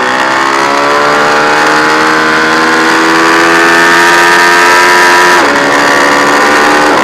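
Ducati 1098's L-twin engine accelerating hard, its pitch climbing steadily until an upshift about five seconds in drops it sharply, then climbing again to another upshift at the very end.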